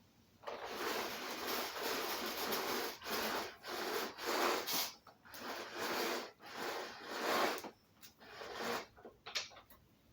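A series of rough rubbing strokes, about a dozen, each under a second long with short gaps between them.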